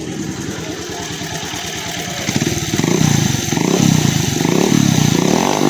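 Bajaj Avenger 220 single-cylinder engine running with its silencer removed, exhausting straight out of the bare header pipe. About two seconds in it gets louder and is revved up and down several times, giving a loud, raw exhaust note.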